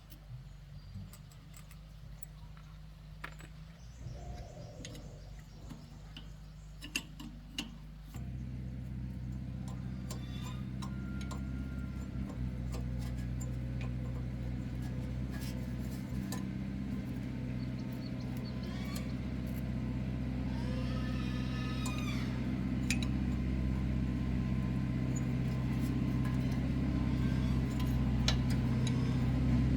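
A machine's steady low hum with a few light clicks and knocks over it. About eight seconds in the hum jumps louder, then slowly grows.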